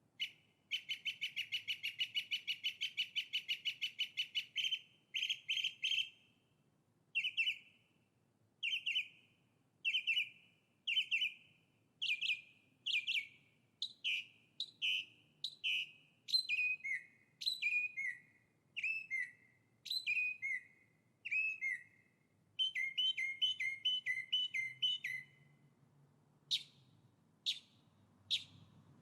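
A songbird singing: a fast trill of chirps, then single notes about once a second, several sliding down in pitch, then another short trill and a few brief high notes near the end.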